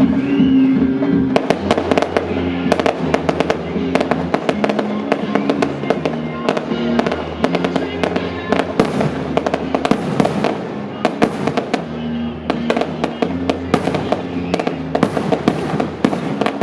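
Fireworks going off in rapid, dense volleys of sharp bangs and crackles, starting about a second in, over music playing steadily throughout.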